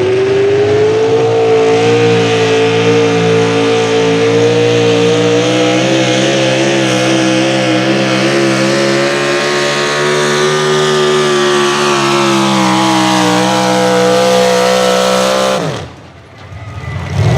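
Pro Stock four-wheel-drive pulling truck's engine running flat out under load down the pull track: the pitch climbs at first, holds high, then slowly sags as the sled bears down. The sound cuts off suddenly near the end.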